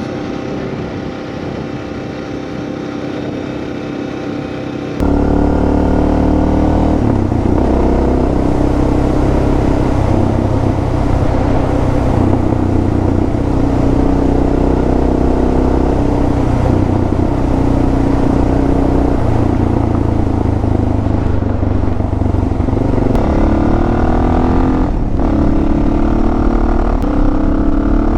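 Suzuki DR650 single-cylinder engine running while the motorcycle is ridden, its pitch rising and falling with throttle and gear changes. It is quieter for the first five seconds, then suddenly louder.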